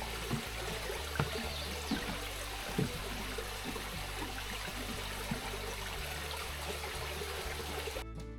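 Creek water rushing steadily, with background music underneath. Near the end the water sound cuts off, leaving only the music.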